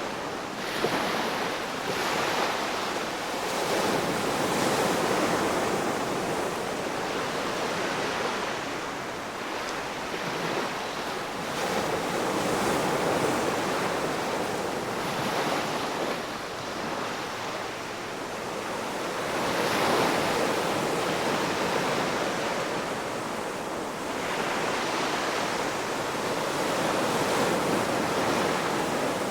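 Ocean surf: waves breaking and washing onto the shore in a continuous hiss that swells and ebbs every few seconds.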